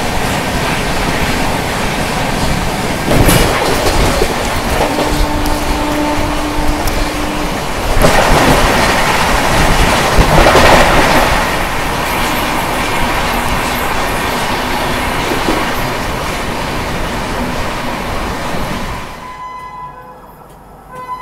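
Loud rushing and clatter of a train running at about 130 km/h, heard from an open coach door, with another train passing on the adjacent track, loudest around the middle. A steady tone sounds for a couple of seconds early on the way, and about two seconds before the end the rush falls away sharply as the passing train clears.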